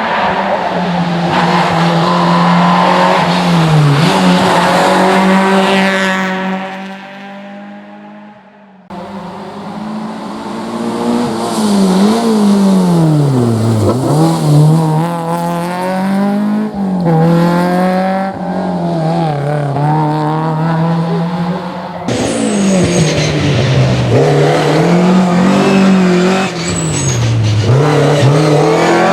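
Historic rally cars driven hard on a special stage, one after another, each engine revving high, dropping at gear changes and swooping down and up again through braking and acceleration. The first car fades away before a sudden switch to the next about nine seconds in, and there is another sudden switch about twenty-two seconds in.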